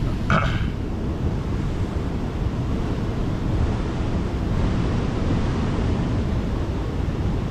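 Wind buffeting the microphone: a steady, low rumbling rush. A brief higher sound cuts in just after the start.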